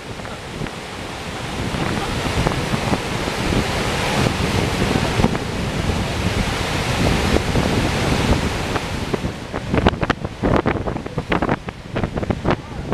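Gullfoss waterfall's steady roar of falling water, with wind buffeting the microphone. The buffeting comes in sharp gusts over the last few seconds.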